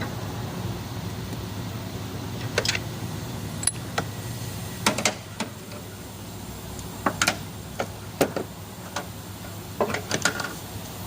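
Irregular sharp clicks and clinks of hand tools and metal engine parts during cylinder head removal on a V8, a dozen or so spaced unevenly, over a steady low hum.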